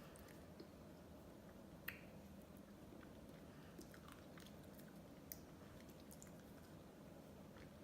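Faint mouth sounds of eating ice cream: soft wet smacks and small clicks, with a sharper click about two seconds in and another a little past five seconds.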